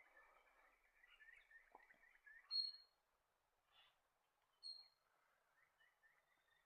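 Faint birdsong: quick runs of repeated chirping notes, with two short, high whistles about two seconds apart standing out as the loudest sounds.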